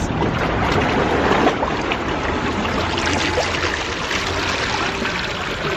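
Seawater washing and surging among shoreline rocks, a steady rushing water noise.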